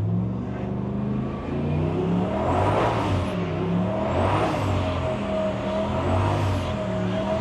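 Turbocharged LS1 V8 of a Holden WB ute, heard from inside the cab, revving up and down repeatedly as the car is held in a drift.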